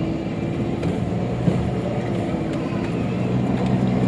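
Car engine and road noise heard from inside the cabin while driving: a steady low hum with a constant engine drone.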